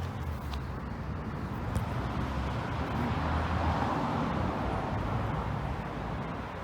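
Road traffic noise: a passing vehicle's rumble and tyre noise that swells to its loudest about four seconds in and then eases off.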